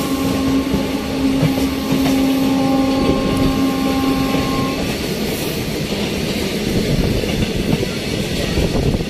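Moving passenger train heard from an open coach door: a steady rumble and rattle of wheels and coaches on the track. For the first five seconds a long steady tone sounds over it, then stops.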